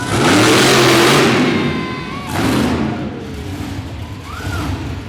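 Monster truck engine revving hard, a loud burst rising in pitch for about two seconds, then a second short burst, then easing off.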